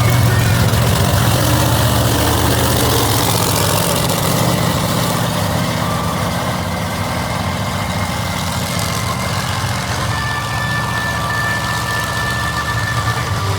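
Large monster truck engine running loud at a low, steady idle, easing off slightly after a few seconds.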